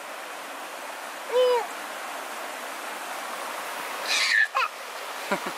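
River water rushing steadily, with two brief voice sounds over it: a short low call about a second and a half in and a higher one a little after four seconds.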